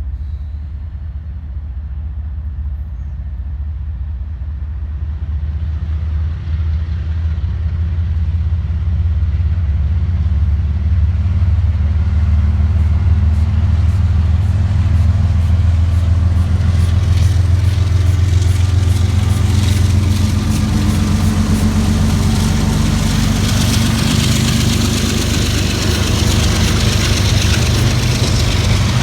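Diesel locomotives of a freight train approaching, their engines a steady low drone that grows louder. From about halfway through, rising wheel-on-rail hiss and a run of regular clicks join in as the train draws level.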